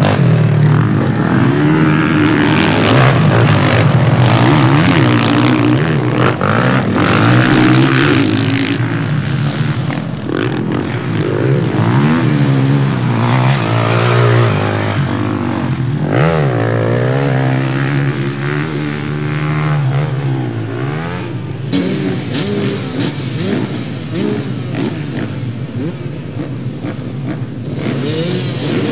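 Several motocross bikes racing, their engines revving up and dropping back over and over as riders open the throttle and shift. The engines are loudest for the first third, then somewhat further off.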